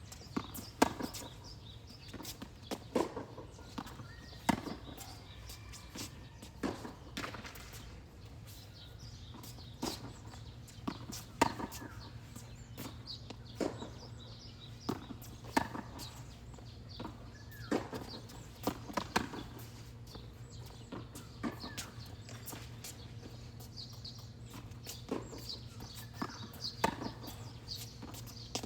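Tennis rally: a tennis ball struck back and forth by rackets and bouncing on the court, a sharp knock about every one to two seconds, with scuffing footsteps between hits.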